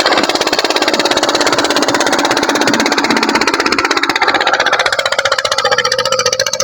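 Tractor diesel engine running loud and steady, with a fast, even beat.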